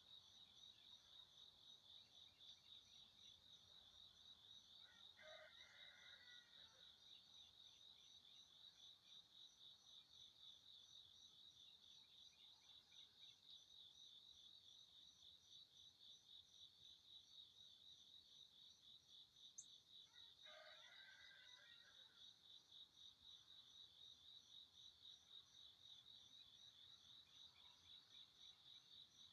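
Faint, steady chirping of crickets, a fast even pulse. Two brief soft sounds come in about five seconds in and again about twenty seconds in.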